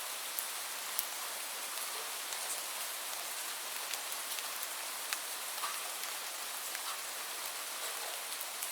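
Steady rainfall: an even hiss of rain with individual drops ticking sharply here and there, about one or two a second.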